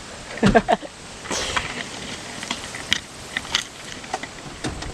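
Scattered clicks and knocks of hard objects being handled, with a brief voice-like sound about half a second in.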